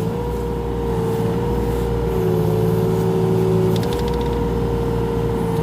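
Mini excavator engine running steadily under the operator's work, a constant drone whose pitch sags slightly for a second or two in the middle, with a few faint ticks.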